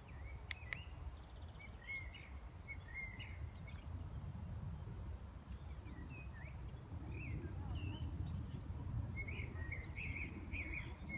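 Wind rumbling on the microphone, with small birds chirping and twittering in short calls throughout, busier in the second half.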